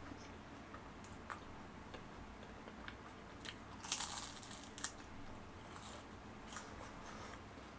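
Close-up crunching of a bite of fried shrimp in crisp batter, a dense burst of crunches about three and a half to five seconds in, with faint clicks before it and quieter chewing after.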